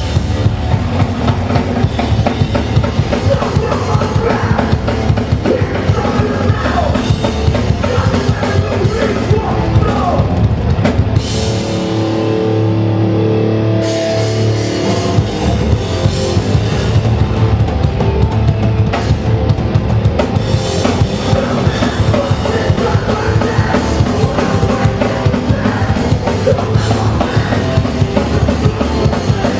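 Hardcore punk band playing live: loud, fast drums with distorted guitar and bass. About twelve seconds in, the drumming drops back for a few seconds under a held chord, then the full band comes back in.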